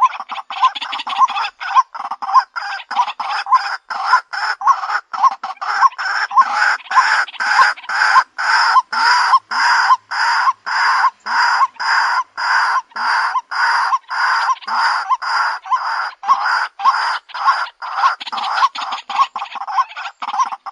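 White-breasted waterhen calling: a long unbroken series of short, repeated notes. They come about four a second at the start and near the end, and slow to about two or three a second in the middle.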